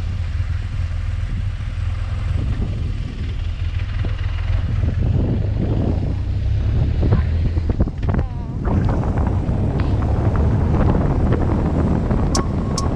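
BMW R1200GS boxer-twin engine running steadily while riding, under heavy wind noise on the microphone; a little louder from about eight seconds in.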